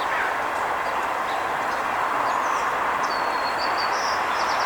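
Steady outdoor rushing background noise, like distant traffic. A crow caws once right at the start, and a small bird gives a few high thin whistles and chirps about three seconds in.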